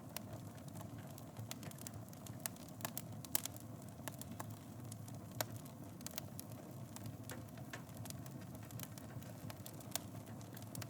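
Wood fire in a fireplace crackling and popping: a low steady rush of flame with sharp, irregular pops, a few louder snaps among them.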